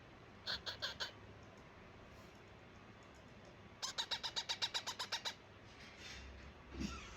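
Parakeet chick calling: a quick burst of four short squawks, then a longer run of about a dozen rapid calls at roughly seven a second, the repeated calling of a chick begging to be fed. A low soft thump near the end.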